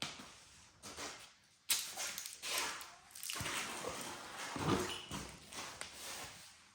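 Handling noises from fitting a new oil filter on a motorcycle: irregular rubbing and scraping, with a sharp knock about two seconds in.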